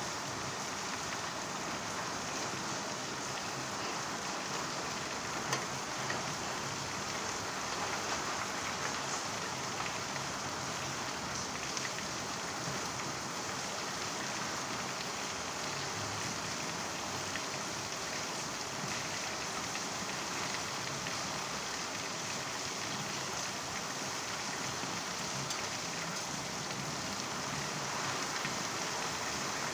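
Steady rain falling, an even hiss of drops with a few faint separate ticks.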